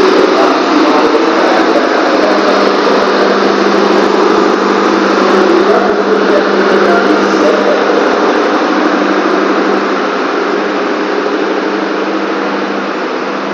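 Train running at the station platform: a loud, steady machine drone with a constant low hum, easing slightly in the last few seconds.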